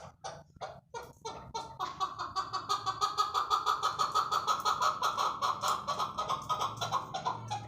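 Chukar partridge calling: a few scattered clucks, then a fast, steady run of loud "chuck" notes from about two seconds in, stopping just before the end.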